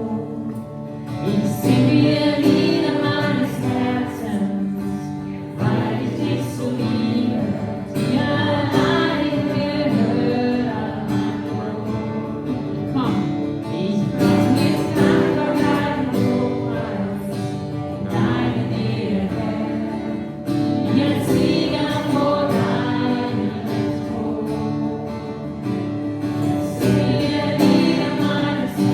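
A group singing a German worship song together, with instrumental accompaniment.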